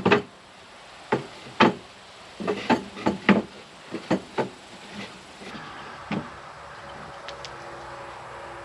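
Irregular wooden knocks and taps, about a dozen in the first four and a half seconds and one more a little after six seconds, from pieces of wood being handled and knocked together while a wooden frame is built.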